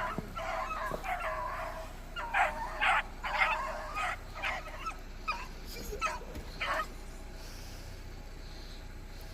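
Beagles barking in a rapid run of yelps while running a track, the calls stopping about seven seconds in.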